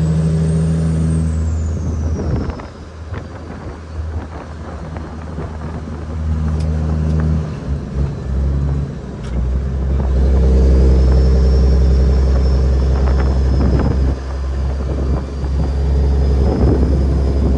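Cat 6NZ inline-six diesel engine of a heavily loaded Kenworth W900L running under load, with a high thin whine above it. Its note drops away about eight seconds in and comes back louder and steady from about ten seconds.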